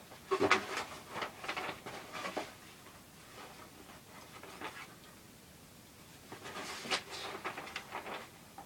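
Rustling and light clicking from handling the contents of a plastic model kit box, in two bursts: one starting just after the start and another around seven seconds in.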